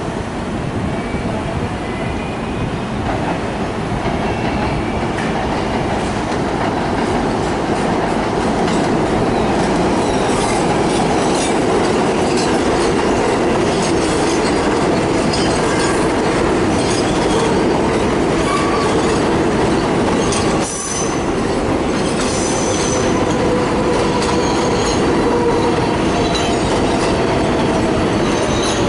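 Train running on rails, growing louder over the first few seconds, with wheels squealing at times and the clack of wheels over rail joints.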